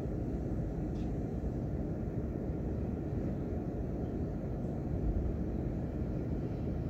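Steady low rumbling noise, even and unbroken, with most of its weight in the deep range, as in a continuous ambient noise recording; a faint tick about a second in.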